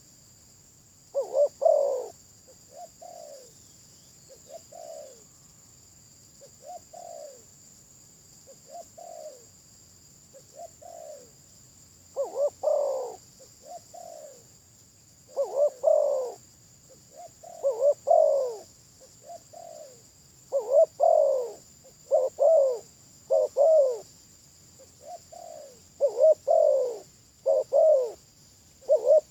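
Spotted dove cooing over and over in short, falling coo notes. Some are soft and single, others louder in groups of two or three, and the loud groups come more often in the second half. A steady high hiss runs underneath.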